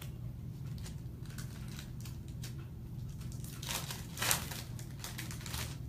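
Crinkling and tearing of wrapper packaging as a trading-card box and packs are opened, a run of short crackles that grows busiest and loudest a little past the middle. A steady low hum lies under it.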